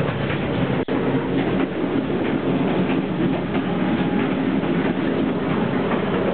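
Running noise of a passenger train in motion, heard in the gangway between two carriages: a steady rumble and rattle with irregular clacks from the wheels and couplings. The sound drops out for an instant about a second in.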